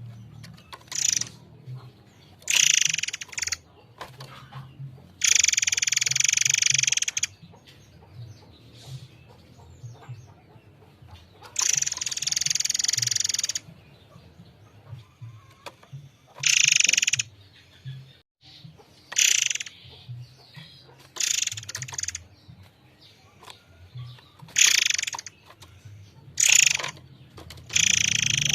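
A murai air mancur songbird singing clear, high phrases in about a dozen separate bursts, some brief and some held for about two seconds, with short pauses between them. A faint low hum lies underneath.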